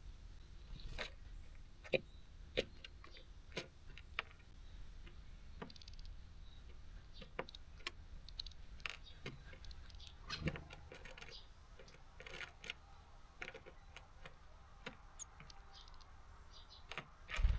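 Small songbirds pecking and hopping on a seed feeder: irregular sharp clicks and taps of beaks and feet on the feeder, a few of them louder, with no steady rhythm.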